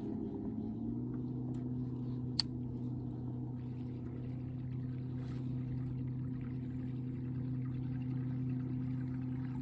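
Boat motor running steadily with an even hum, its pitch stepping up slightly about a second in, and a single small click a little later.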